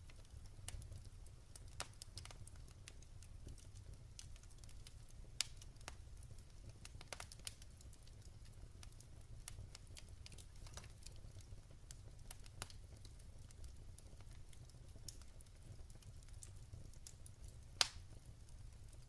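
Wood fire burning, crackling with scattered sharp pops over a low rumble of the flames; one pop near the end is the loudest.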